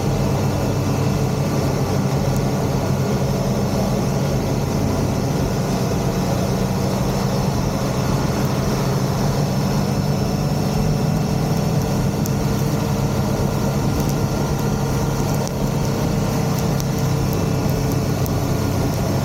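Motorcycle engine running at a steady speed, its pitch unchanging throughout, under a steady hiss.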